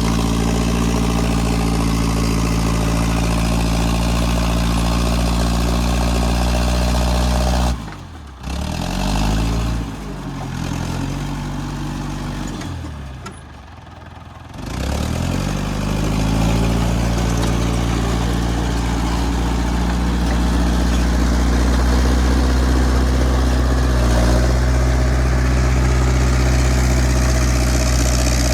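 Engine of an International 125 crawler loader running steadily at work. About eight seconds in it drops away, its pitch sagging and rising a couple of times, then it comes back up to steady running for the rest.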